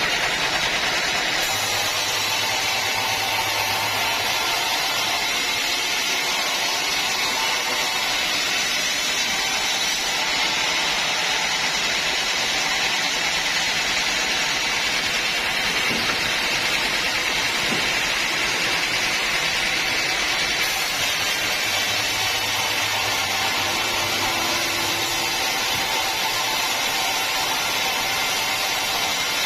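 Band sawmill running and sawing through a mahogany log: a steady, even machine noise with no breaks.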